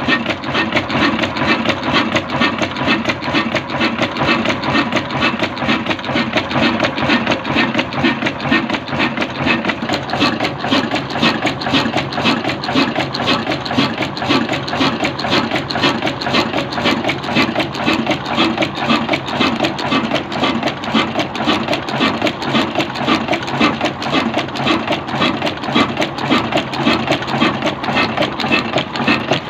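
Old 22 hp Hafiz desi diesel engine running steadily, each firing stroke giving an even, rapid beat.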